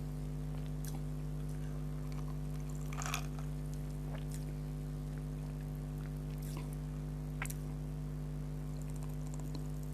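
Steady low electrical hum in the recording, with a few faint, scattered crackles of eating.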